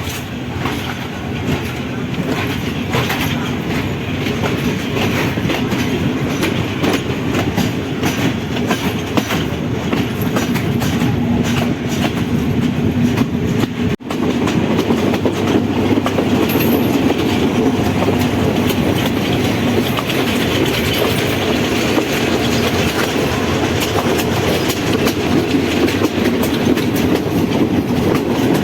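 Passenger train running along the track, with a steady rumble and quick clickety-clack of the wheels. There is a short break about halfway, after which it is a little louder.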